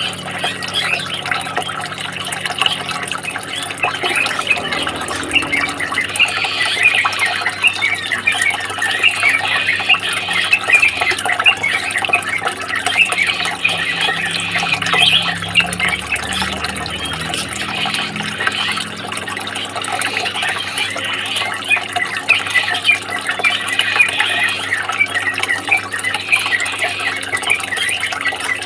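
Running water trickling and splashing steadily, with dense quick flickers of sound throughout.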